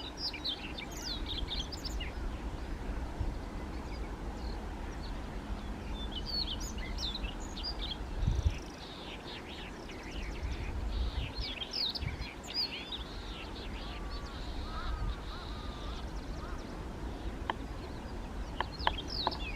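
Siberian rubythroat singing: bursts of quick, high, rising and falling warbled notes, separated by short pauses. A low rumble runs underneath, with a couple of dull thumps around the middle.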